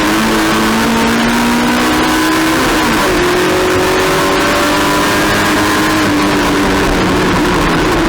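Race car engine running hard at high revs, the pitch climbing, dropping at a gear change about three seconds in, then climbing again.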